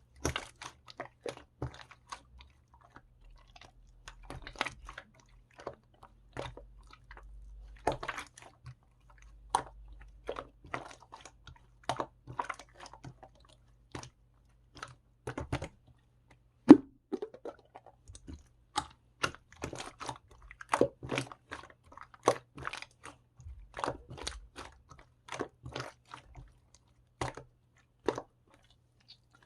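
A person biting and chewing crunchy food: irregular crunches in quick clusters with short pauses, one sharper crunch near the middle.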